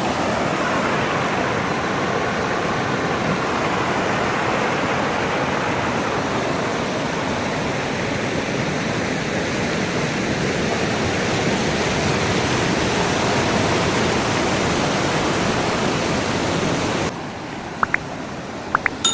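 Waterfall's steady rush of falling water. About 17 seconds in it cuts off abruptly to a quieter background with a few short sharp clicks.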